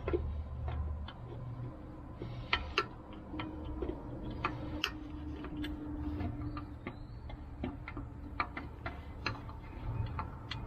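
Irregular sharp metallic clicks and clinks of tools and tractor parts being handled and set down, over a low steady hum.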